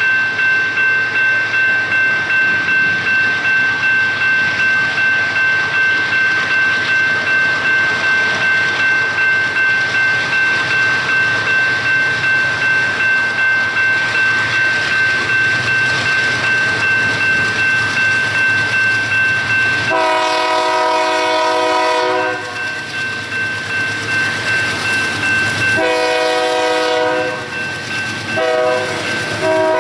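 Grade-crossing warning bell ringing in even, rapid strokes. About two-thirds of the way through, a diesel freight locomotive's multi-chime air horn joins it, blowing the grade-crossing signal: long, long, short, then a final long blast that is still sounding at the end.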